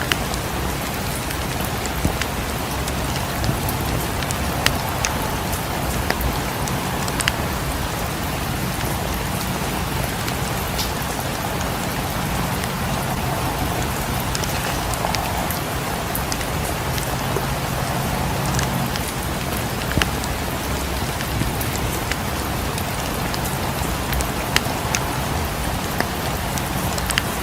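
Steady rain, mixed with the scattered sharp crackle of a wood fire in a fireplace.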